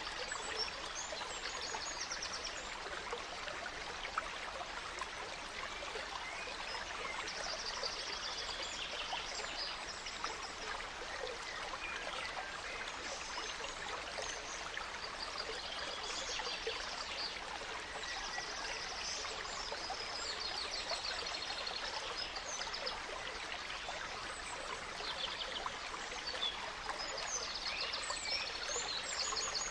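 A gentle stream flowing steadily, with forest birds singing over it: high-pitched rapid trills that come every few seconds, among scattered short chirps.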